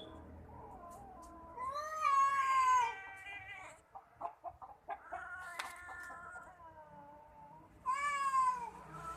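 Domestic cats caterwauling in a fight: a long, wavering yowl about two seconds in, a fainter one midway with short sharp sounds before it, and a short loud yowl falling in pitch near the end.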